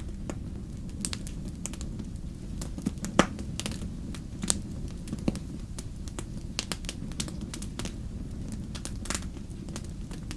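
Wood fire crackling in a fireplace: irregular sharp pops and snaps over a steady low rumble, with one louder pop about three seconds in.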